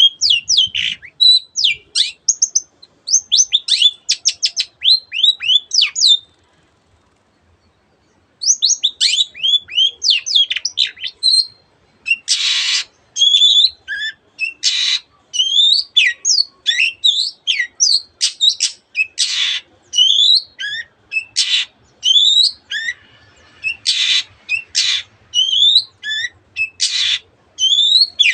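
Long-tailed shrike (cendet) singing a fast, varied song of quick high sweeping notes, packed with mimicry of canary and other birds. The song stops for about two seconds near the quarter mark. In the second half, short harsh rasping notes break in every two to five seconds.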